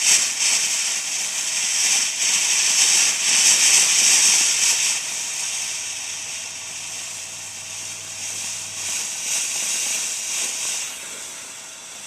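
Fountain firework spraying sparks: a steady, loud hiss that flickers, drops off about five seconds in and dies away near the end.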